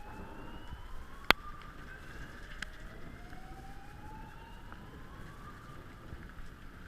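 Distant emergency-vehicle siren wailing, its pitch climbing slowly and starting over. A single sharp click sounds about a second in.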